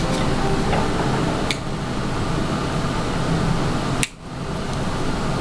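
Steady whirring room noise like a running fan, with two short sharp clicks, one about a second and a half in and one about four seconds in. The noise drops away briefly after the second click.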